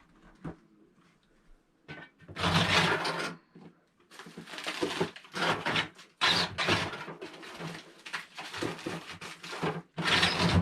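Rustling and handling noises: a run of noisy bursts starting about two seconds in, as a packaged ready-made microwave meal is taken out and handled.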